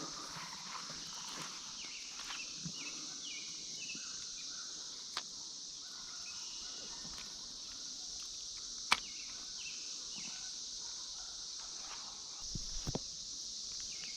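Steady, high-pitched drone of a Brood X periodical cicada chorus, with faint short chirps over it and two sharp clicks, about five and nine seconds in.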